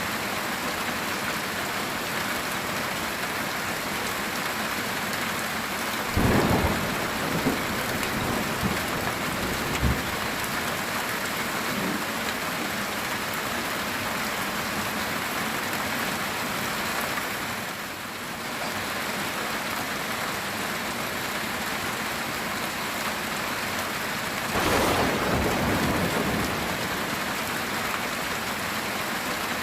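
Heavy rain falling steadily on a metal tin roof, with a rumble of thunder about six seconds in followed by a few sharp cracks, and a second rumble about twenty-five seconds in.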